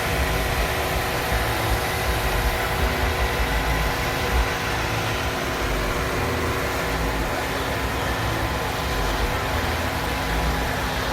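A car engine idling steadily at constant revs, with a low rumble underneath.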